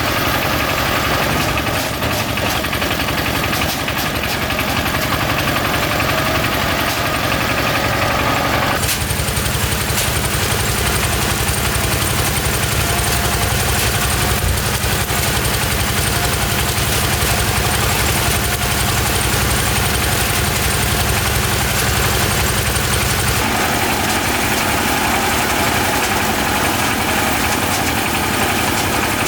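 An engine running steadily and loudly. Its tone changes abruptly about nine seconds in and again near the end.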